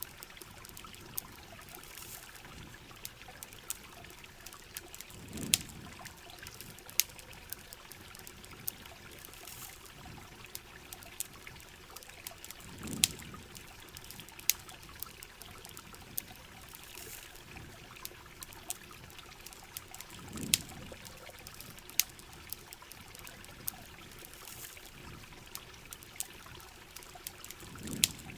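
Heavy rain and trickling water running steadily, with scattered sharp pops and ticks throughout. A soft low swell rises and fades about every seven or eight seconds.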